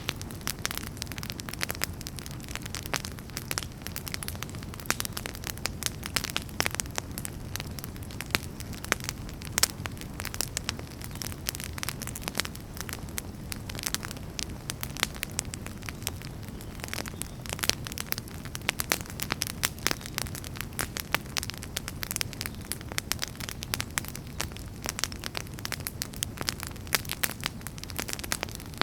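Wood fire crackling: many sharp pops and snaps at irregular intervals over a steady low rumble of burning.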